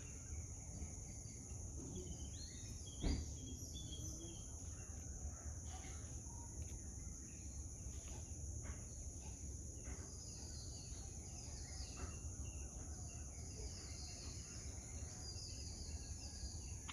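Garden ambience: a steady, high-pitched insect drone with scattered bird chirps, busier near the end, over a low rumble. A single sharp knock about three seconds in is the loudest sound.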